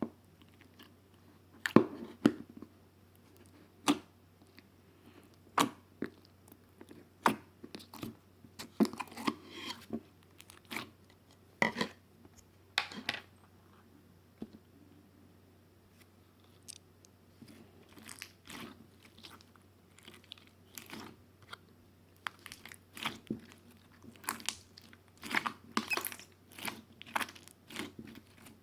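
Close-up eating sounds: irregular crisp, crunchy bites and chewing, with a quieter pause in the middle and denser crackling near the end.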